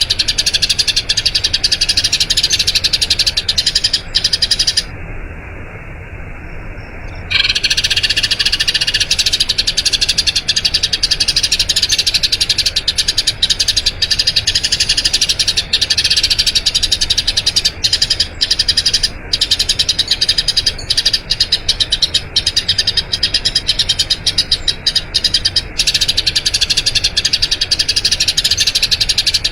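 Eurasian tree sparrow chirping in a long, rapid, unbroken rolling run. The chirping drops out for about two seconds around five seconds in, then resumes just as densely.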